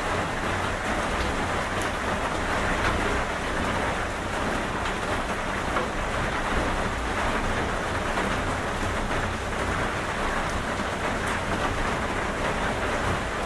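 Steady rain falling, a dense even hiss with scattered fine drop ticks and a low rumble beneath.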